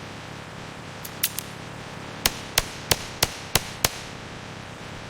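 A series of sharp knocks, like hammer strikes, over a steady low background noise: two lighter knocks about a second in, then six evenly spaced strikes at about three a second.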